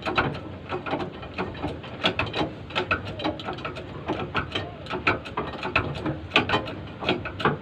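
Irregular metallic clicks and knocks, several a second, from hand tools working on a large truck tire and its steel rim.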